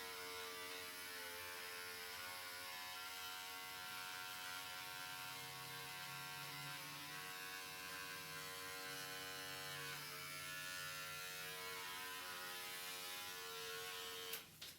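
Electric hair clippers buzzing steadily, the pitch dipping briefly a couple of times, then switched off with a click near the end.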